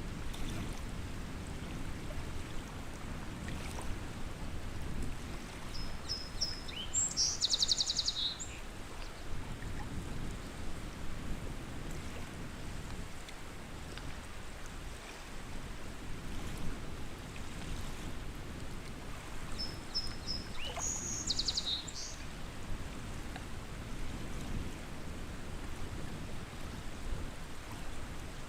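Lakeside ambience: a low, steady wash of wind and water, with a songbird singing the same short phrase twice, a few high notes followed by a quick trill, about a quarter of the way in and again after two-thirds.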